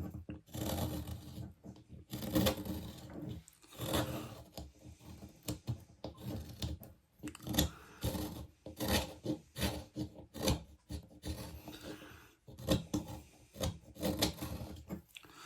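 A whittling knife slicing and scraping chips off a hardwood blank in short, irregular strokes, roughly one or two a second, while the blank is roughed out.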